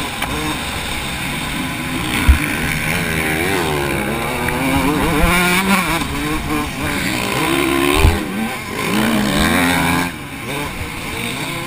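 TM Racing MX 144 two-stroke motocross engine revving up and down, the pitch rising and falling again and again as the rider opens and closes the throttle. Two sharp thumps stand out, about two seconds in and again about eight seconds in, and the engine note drops near the end.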